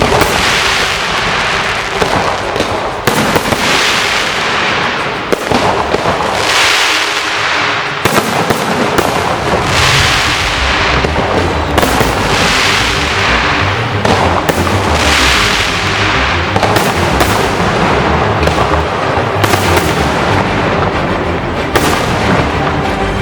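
Firecrackers and fireworks going off in a continuous, dense crackle of bangs, with louder surges every two to three seconds: a temple firecracker salute.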